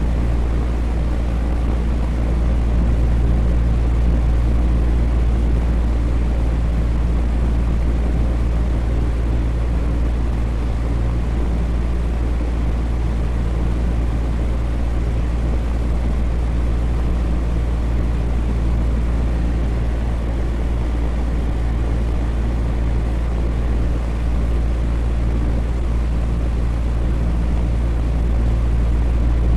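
Electric fan running steadily: a constant deep hum under an even rush of moving air.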